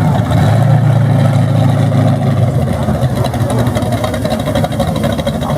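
A car engine running loudly at a drag race: a deep steady rumble that eases off about halfway through.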